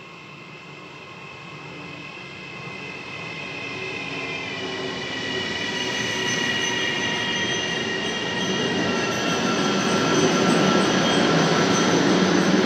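Double-deck Vivalto regional train running along the platform and past close by, its wheel rumble growing louder throughout. A high, steady squeal rides over it and slides down in pitch about four to five seconds in.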